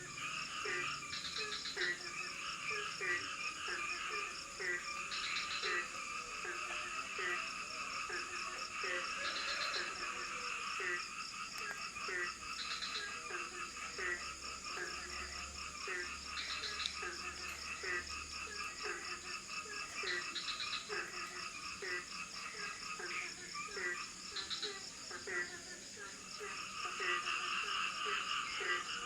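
A chorus of frogs calling in tropical forest, short croaks repeating about twice a second, over a steady high-pitched drone of insects with intermittent higher chirps.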